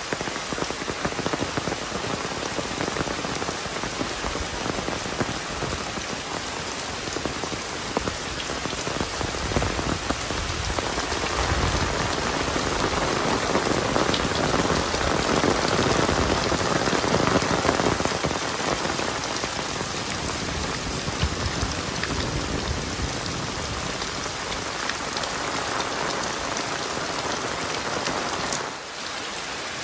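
Heavy rain pouring down, a dense steady patter that grows louder about halfway through, then eases. The level drops sharply for a moment near the end.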